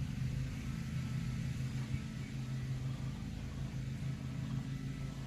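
Steady low hum, even in level throughout.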